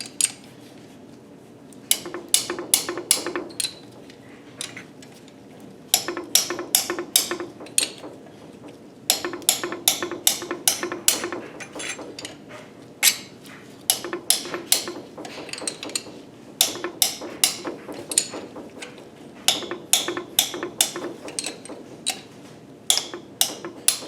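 Hammer striking metal in quick bursts of five to eight sharp blows with short pauses between, aimed at a stuck exhaust-manifold nut on a KA24DE engine.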